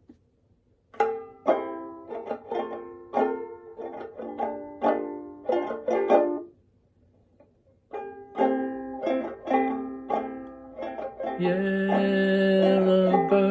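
A plucked string instrument picks out a melody one note at a time, each note dying away quickly. The notes stop briefly about halfway through, then resume, and held sustained tones come in near the end.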